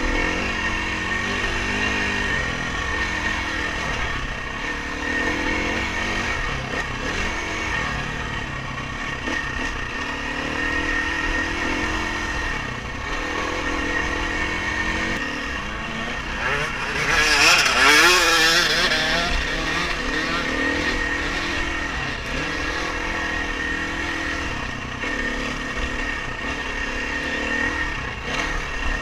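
Dirt bike engine ridden hard, its pitch rising and falling as the throttle opens and closes, with a steady high whine alongside. About seventeen seconds in, a louder rush of noise swells for a couple of seconds and fades.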